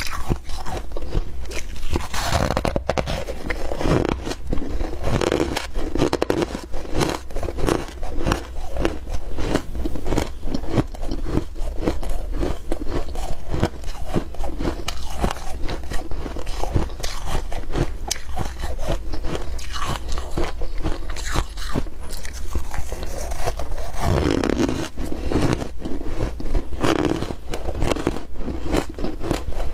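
Ice being bitten and chewed close to the microphone: a continuous run of rapid, crunching bites.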